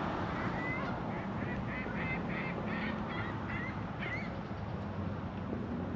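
Waterfowl calling in a quick run of about ten short calls over roughly four seconds, over a steady low background noise.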